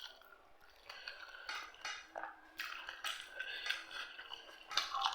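Cutlery clinking and scraping against a dish during a meal, a run of short clinks with brief ringing, the loudest near the end.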